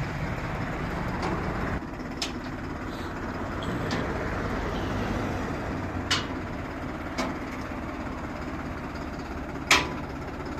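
New Holland tractor's diesel engine running steadily while the tractor is unloaded from a trailer, with four sharp metallic knocks, the loudest near the end.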